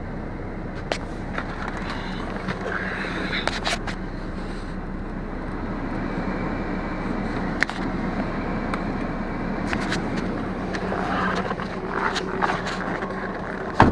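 Volkswagen Passat's 1.9 TDI four-cylinder diesel idling steadily after a cold start at about -25 °C, with scattered clicks and scrapes over it.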